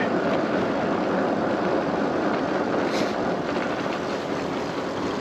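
Steady rush of wind and road noise from riding a SUPER73 electric bike, with no motor tone standing out. There is a single sharp click about three seconds in.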